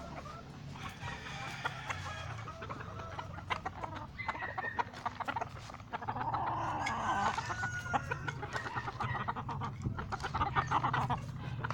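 Game fowl chickens clucking, with many short sharp clicks that grow denser in the second half.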